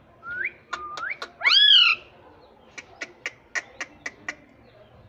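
Indian ringneck parrot giving short rising whistled calls, the loudest arching up and falling away near two seconds in, followed by a quick run of about eight short sharp clicks.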